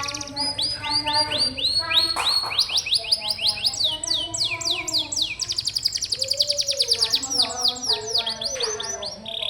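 Domestic canary song: fast rolls of repeated high, downward-sweeping notes and trills, mixed with lower warbling notes.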